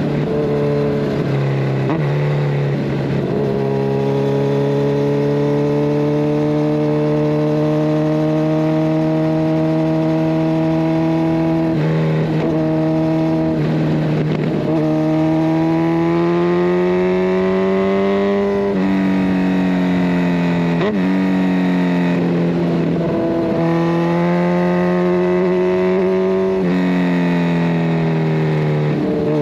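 Kawasaki Ninja 1000SX inline-four engine through a de-catted Scorpion Red Power exhaust, being ridden: the engine note rises slowly under steady throttle and steps up and down in pitch several times with gear changes and throttle changes.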